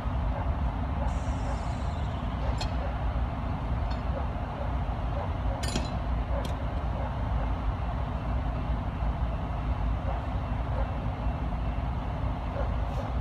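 A passing train: steady low running noise with a few sharp clicks.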